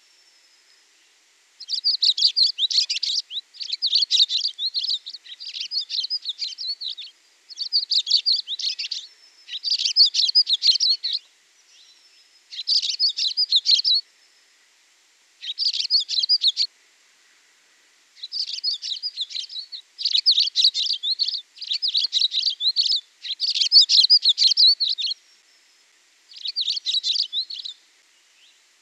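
Songbird singing: high, rapid chirping phrases about a second or two long, repeated about a dozen times with short pauses between them.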